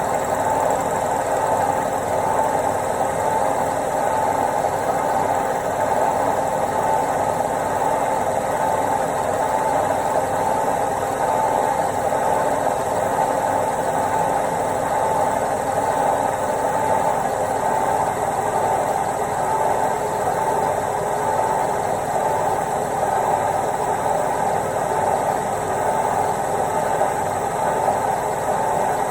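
Indesit IWC71252 front-loading washing machine running steadily on its quick wash programme: a continuous mechanical hum and drum rumble with a faint regular pulse underneath.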